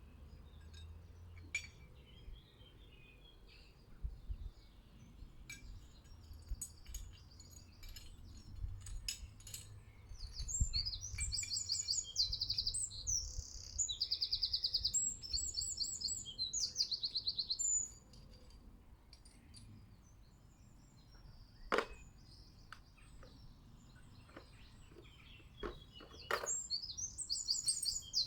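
Small garden songbirds singing and chirping, with a loud run of fast, repeated high trilling phrases from about ten to eighteen seconds in and again near the end. Scattered light clicks and taps, and one sharp knock a little past the middle.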